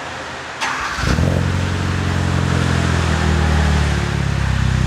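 A 2015 Hyundai Veloster Turbo's 1.6-litre turbocharged four-cylinder cold-starting through a CNT Racing cat-back exhaust. The starter turns briefly about half a second in, the engine catches about a second in with a short flare in revs, then settles to a steady, low-pitched cold idle near the end.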